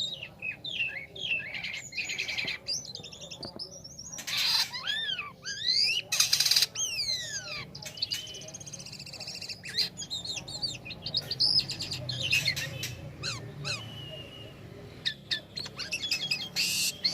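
A jalak kapas starling singing a long, varied chattering song: quick whistled notes sliding down in pitch, trills and squeaks, with two short harsh buzzy notes around a third of the way in.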